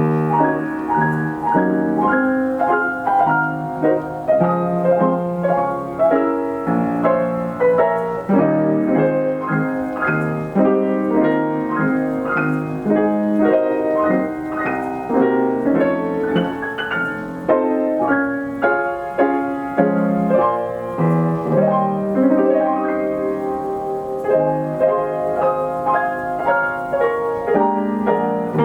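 Steinway piano with an Ampico B reproducing player mechanism playing a 1936 roll of popular dance-song arrangements: a steady stream of chords and melody with no pauses.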